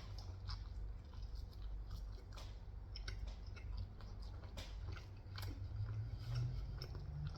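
Close-miked chewing of crunchy Takis rolled tortilla chips: many short, crisp crunches at an uneven pace.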